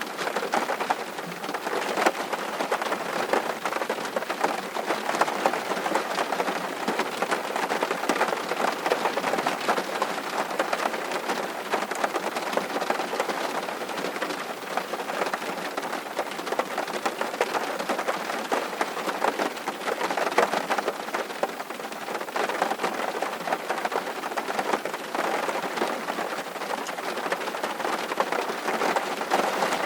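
Steady rain, with many individual drops ticking close by.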